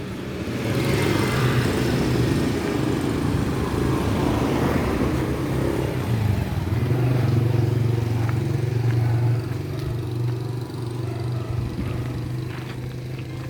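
Mini trail bike's small engine running steadily through its twin exhaust, easing off a little near the end.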